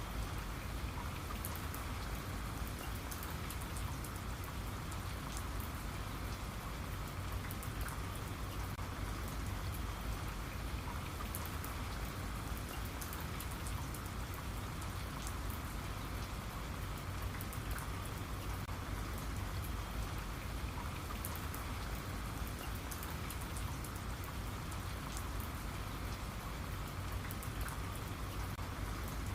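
Steady rain falling, with many fine drop ticks over an even hiss and no change in intensity.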